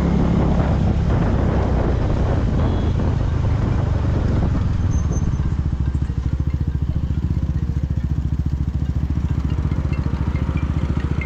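KTM Duke 390's single-cylinder engine running with wind rush while under way, then dropping to idle about five seconds in, where its separate firing pulses are heard as an even throb.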